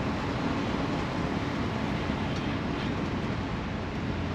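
Parking lot tram rolling along, a steady rumble of its engine and tyres with wind noise.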